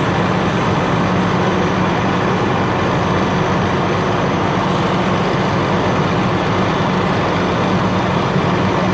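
Heavy truck engine idling steadily, a constant low hum under a noisy hiss.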